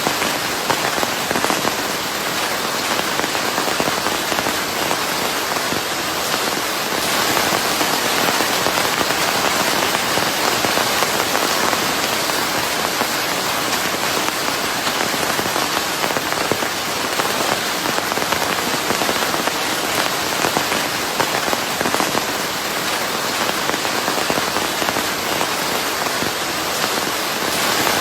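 Steady heavy rainfall, a dense even patter of drops on a surface, mixed with a white-noise hiss.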